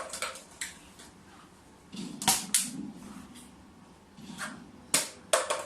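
Sharp knocks and clacks in small clusters, the loudest pairs coming about two seconds in and again about five seconds in.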